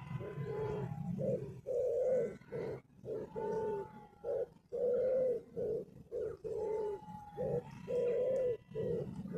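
A pigeon or dove cooing: a run of soft, low, repeated notes with short gaps between them.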